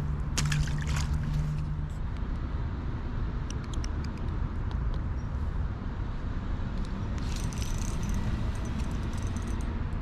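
Steady low outdoor rumble beside the river, with faint water trickling and scattered light clicks and crackles.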